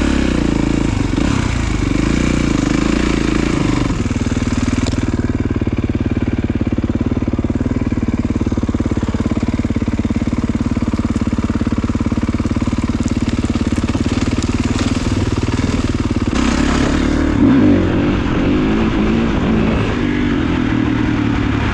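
Kawasaki KX450 dirt bike's single-cylinder four-stroke engine running as it is ridden over the trail. The engine note changes with the throttle about four seconds in and again about sixteen seconds in.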